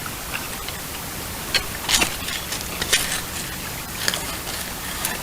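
A few sharp clicks and knocks of fishing tackle being handled, over a steady hiss.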